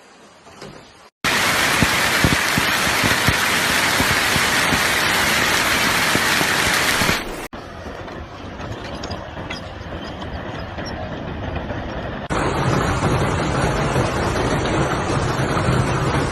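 Heavy hail pelting down in a series of separate clips: a loud, dense clatter of many sharp ticks for about six seconds, then a sudden cut to a quieter patter, then a cut to steady pelting over a low hum.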